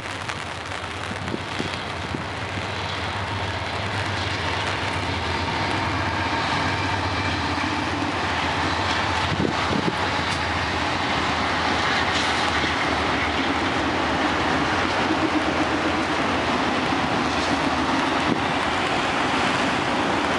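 Autorack freight train behind a single locomotive passing, its wheels running on the rails; it grows louder over the first several seconds, then runs steadily.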